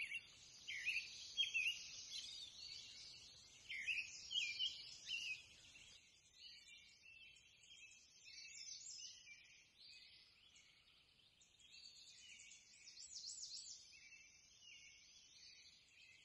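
Faint outdoor birdsong: short, repeated high chirps, busiest in the first six seconds or so, then sparser and fainter.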